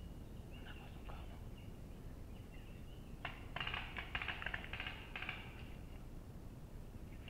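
A bird calling in the woodland, with a rapid chattering stretch lasting about two and a half seconds from about three seconds in, over a steady low rumble.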